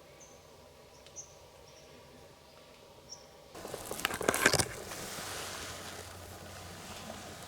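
A few faint, short, high bird chirps over quiet woodland, then about three and a half seconds in a loud burst of rustling and crackling that lasts about a second, followed by a steady hiss.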